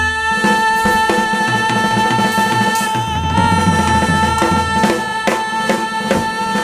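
Live band music: drum and percussion hits over one long, steady held note.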